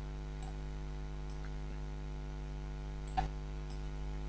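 Steady electrical hum, with a few faint computer mouse clicks and one sharper click a little after three seconds in.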